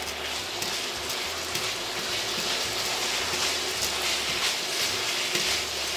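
Ground beef and its sauce sizzling steadily in a hot skillet over medium-high heat, stirred with tongs, with light clicks and scrapes of the tongs against the pan.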